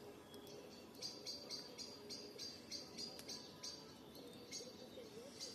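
Garden campfire ambience at dusk: a steady high chirping, about three chirps a second with a short break near the end, over a few faint crackles from the fire.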